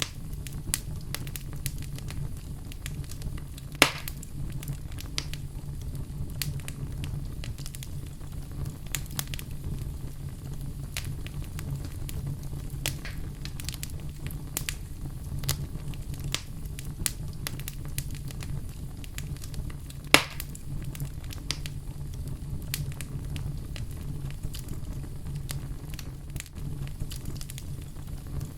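Wood fire burning in a fireplace: a steady low rumble of flames with frequent small crackles, and two sharper pops, one about four seconds in and one about twenty seconds in.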